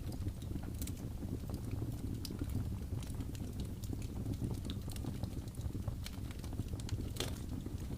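Wood fire crackling in a fireplace: irregular small pops and snaps over a steady low rumble, with one louder pop about seven seconds in.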